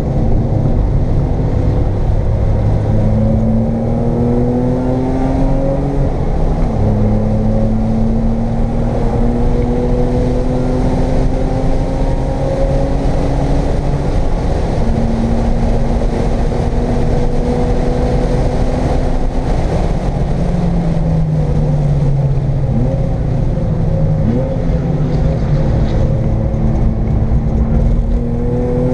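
1995 BMW M3's straight-six engine heard from inside the cabin under hard track driving. It climbs in pitch through the revs and drops abruptly on a shift about six and a half seconds in. It climbs again, falls off about twenty seconds in as the car slows, and pulls up once more near the end, with steady road and tyre noise underneath.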